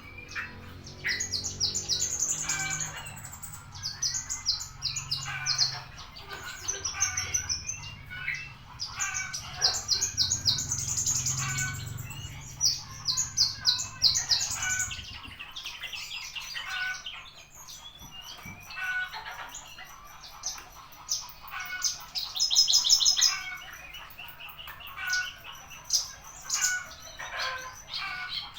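Horsfield's bush lark (branjangan) singing a long, varied song of fast high trills and chirps, broken by short pauses. A low background hum sounds under the song for about the first half.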